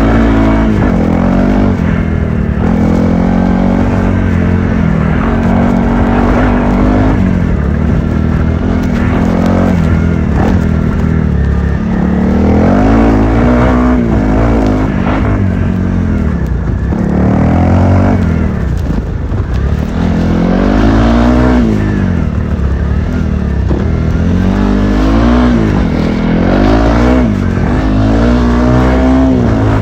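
Honda CRF300L's single-cylinder four-stroke engine under hard riding, its note climbing as the throttle is opened and dropping back as it is closed, over and over every few seconds.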